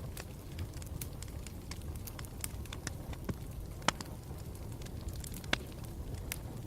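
Campfire burning with a steady low rumble and scattered sharp crackles and pops, two of them louder, about four seconds in and again a second and a half later.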